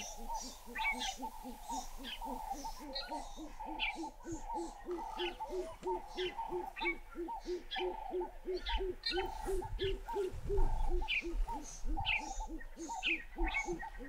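Birds calling: a fast, steady series of low hoots, about four a second, with a slower series of higher notes and scattered short chirps over it. A brief low rumble comes about ten seconds in.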